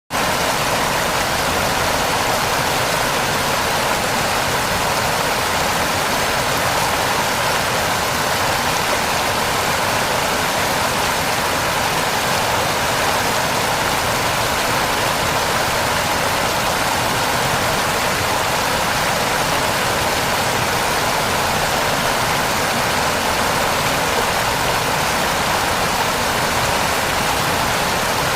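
Heavy rain falling steadily, an even, unbroken hiss with no lulls.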